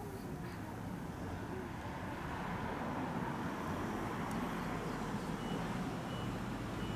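A jet aircraft passing low overhead: a steady rumble with a faint whine that slowly grows louder. Three faint short high beeps sound near the end.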